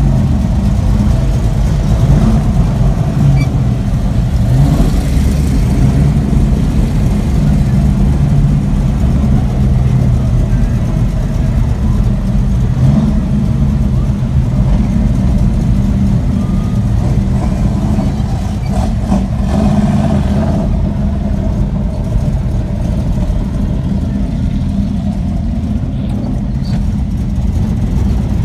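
Car engines running steadily at low cruise speed, a deep low engine and exhaust sound with slight rises in revs.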